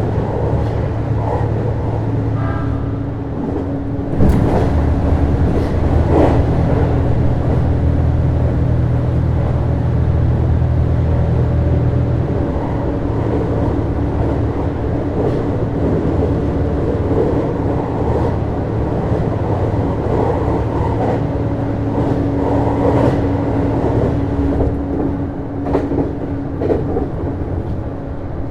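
Running sound inside a JR East HB-E210 series hybrid railcar in motion: a steady low hum from the Komatsu DMF15HZB-G diesel generator engine and the Hitachi IGBT-VVVF traction drive, with wheel noise on the rails. A sharp knock comes about four seconds in, after which the low hum runs louder for several seconds, and a few more knocks follow.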